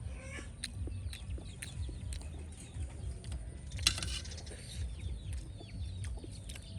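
Birds chirping outdoors, with short falling calls and scattered sharp clicks. There is one louder, brief rustling burst about four seconds in.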